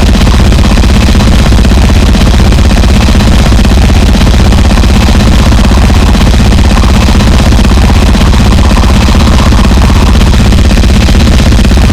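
Gore noise (harsh noise music): a loud, unbroken wall of distorted noise that stays steady throughout, heaviest in a deep low rumble.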